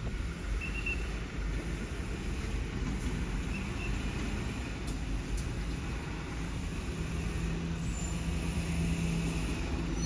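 A truck engine runs under a steady low rumble of street traffic. A steady low hum joins in about seven seconds in.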